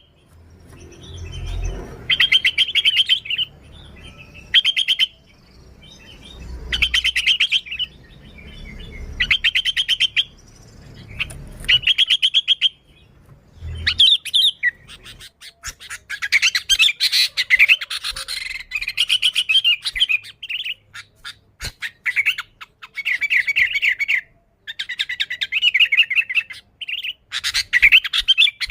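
Sooty-headed bulbul singing in quick, chattering phrases, each a rapid string of notes about a second long. They come in bursts with short gaps at first and run almost without a break in the second half. A low rumble swells underneath a few of the early phrases.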